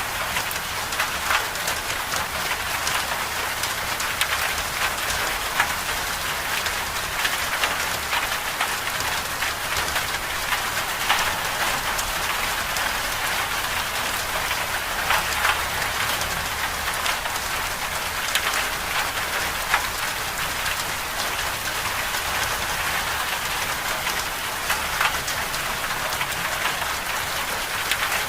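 Steady hiss of a winter storm's precipitation pattering on a surface, dotted with frequent small sharp ticks.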